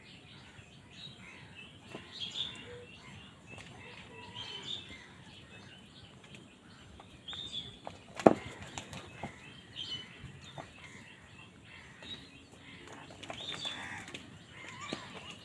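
Crows calling and squabbling over food, short calls throughout with wing flapping, and one sharp knock about 8 seconds in.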